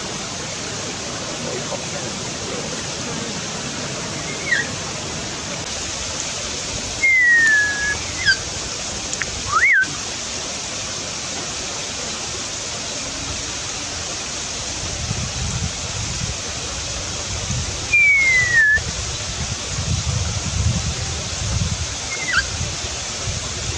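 Kaka parrot giving about five short, clear whistles spread out over the stretch, most gliding downward in pitch, over a steady rushing background noise.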